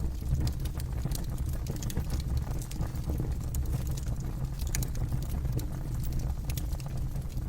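Campfire burning: a steady low rumble of flame under frequent sharp crackles and pops from the burning wood.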